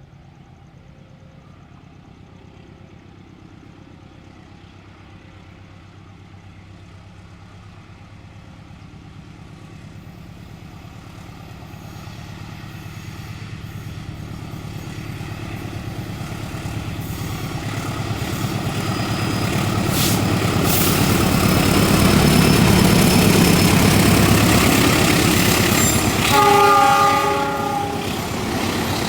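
Diesel-hauled passenger train approaching and passing close, its engine and wheels growing steadily louder for about twenty seconds. Near the end the locomotive gives one short horn blast, about a second long.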